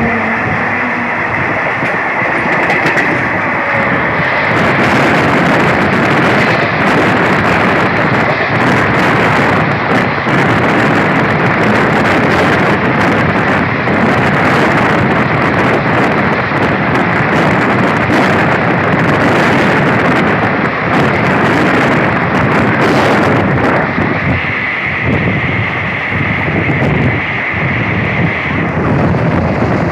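Passenger train running at speed: a loud, steady rush of wind and wheel-on-rail noise, with a high whine that is strongest near the start and again for a few seconds about three-quarters of the way through.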